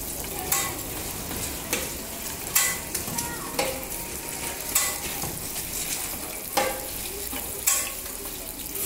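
Oil sizzling steadily as round patties shallow-fry in a large flat pan, with a metal spatula clacking and scraping against the pan about once a second as the cook turns and pushes them.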